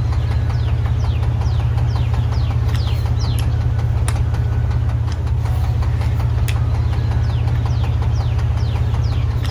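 Truck engine idling steadily, loud and low, with a blown-out exhaust. A rattle underneath is taken by the owner for another exhaust leak.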